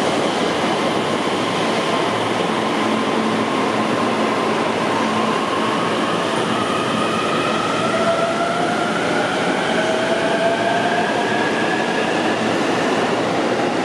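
JR Tokaido Line electric commuter train running past the platform: a steady rumble of wheels and running gear, with a motor whine that rises slowly in pitch over the second half as the train speeds up pulling out.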